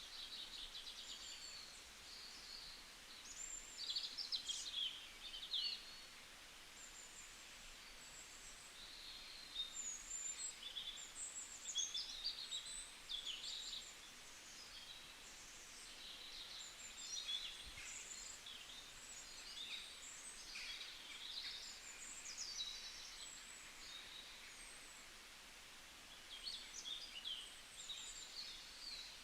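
Several small birds chirping and singing in quick, high, irregular phrases over a faint steady outdoor background hiss.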